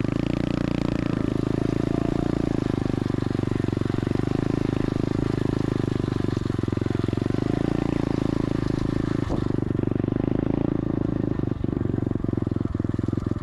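SSR 125 Auto dirt bike's single-cylinder four-stroke engine running at a steady pace while being ridden, with a few light clicks near the end.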